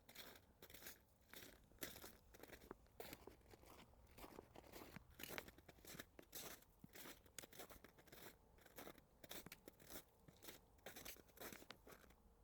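Faint footsteps crunching in snow on a woodland trail, a run of short, irregular crunches several times a second.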